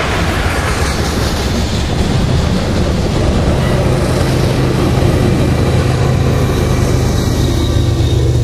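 Double-stack container train rolling past, steel wheels on the rails. The rear pushing diesel locomotive (distributed power unit) goes by midway, with a steady low engine hum under the rolling noise.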